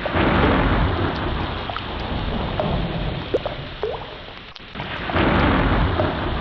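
Ocean water surging in two slow swells, a rolling rush that ebbs about four seconds in and builds again near the end, with short rising chirps scattered through it.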